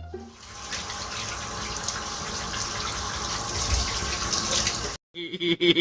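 A steady rushing noise for about five seconds that cuts off abruptly.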